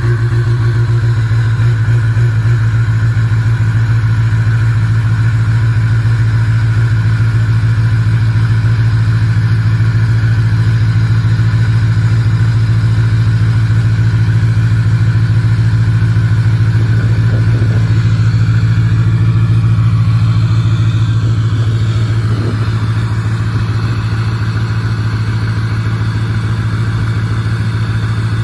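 Pickup truck engine idling steadily just after a cold start in freezing weather, with an even low rumble from the exhaust that eases slightly near the end.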